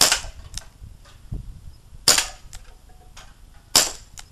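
Three sharp airgun shots, about two seconds apart, each followed by a fainter click.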